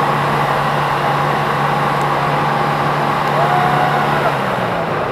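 Car engine revved and held at high, steady revs, then dropping back about four and a half seconds in.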